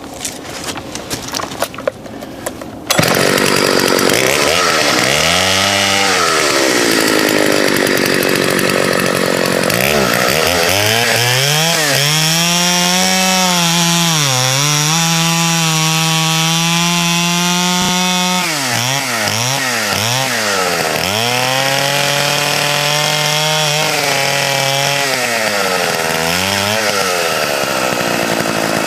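Partner two-stroke chainsaw cutting through branches: about three seconds in it revs up suddenly, then its engine note rises and falls again and again, sagging in pitch while the chain is loaded in the wood.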